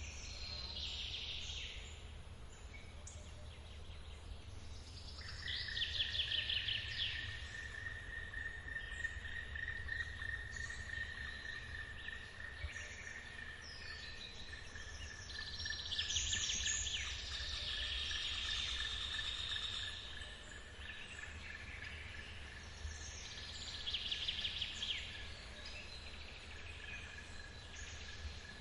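Forest waterfall ambience: the low, steady rush of falling water, with songbirds singing in short bursts several times. From about five seconds in, a steady high-pitched insect buzz joins and holds.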